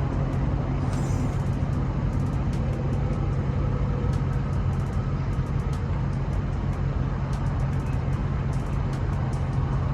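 Engine idling with a steady low hum, with faint irregular ticks over it.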